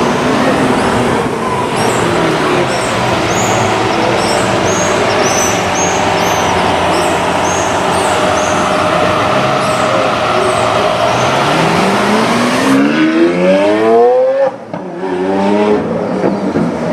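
Lamborghini Aventador S's 6.5-litre V12 running steadily, then revving up hard in a rising note for about two seconds. About two-thirds of the way in the sound dips suddenly, then climbs again.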